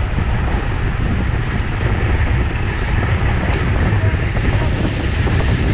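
Wind rushing over the microphone of a camera on a road bike racing at speed: a loud, steady rush, heaviest in the low end.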